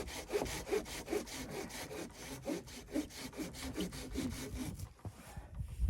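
Hand saw cutting through wood in quick, regular back-and-forth strokes, about two to three a second, stopping near the end.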